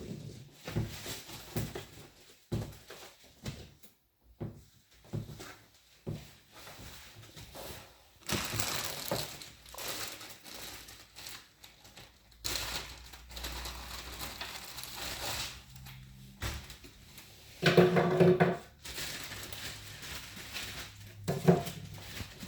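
TV packaging being handled: a run of knocks and thuds, then long stretches of crinkling and rustling, with a brief pitched squeak about 18 seconds in and another near the end.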